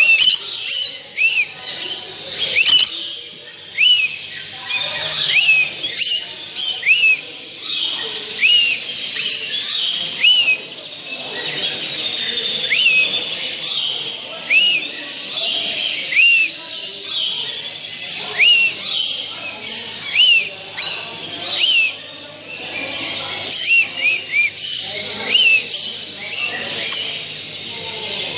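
Many cage birds chirping and twittering together in a dense chorus. One short hooked chirp repeats about once a second above the chatter.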